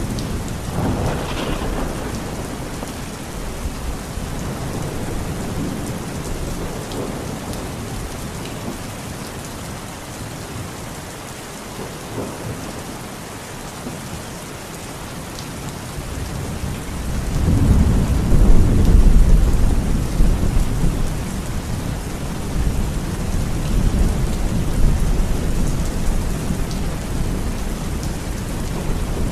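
Steady rainfall with rolling thunder: a rumble at the start dies away, then a louder, deeper rumble builds a little past halfway and rolls on to the end.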